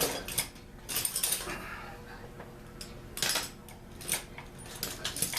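Metal tools and small parts being handled, clinking and clattering in a series of sharp, irregular strikes.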